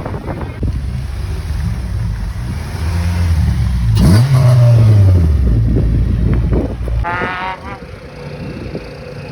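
A car engine running and revving: its pitch climbs about four seconds in and falls back, then the engine sound drops away near seven seconds, followed by a short rising pitched sound.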